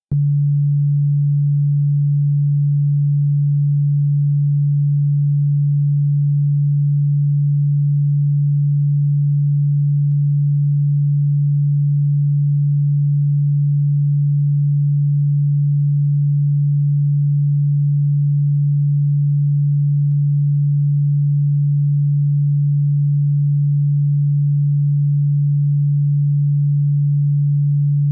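A steady, unbroken electronic sine tone, low in pitch, played as a supposed cockroach-repellent frequency. It starts suddenly out of silence and holds one pitch throughout.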